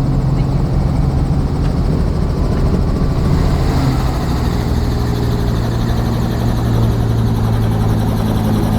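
Helicopter in flight, heard from on board: a loud, steady low drone of rotor and engine, its main low tone dropping slightly in pitch about four seconds in.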